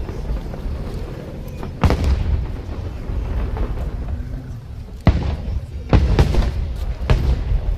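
Aerial fireworks shells bursting overhead: four sharp bangs, the first about two seconds in and the other three close together in the second half, over a continuous low rumble of the show.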